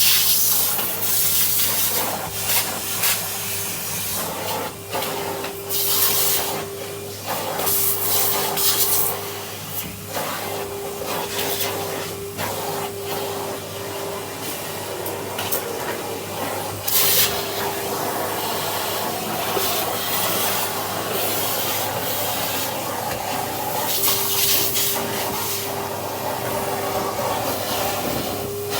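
Vacuum cleaner with a brush attachment running steadily, its motor hum and airflow hiss broken by repeated surges of hiss as the brush rubs over surfaces and dust is sucked up.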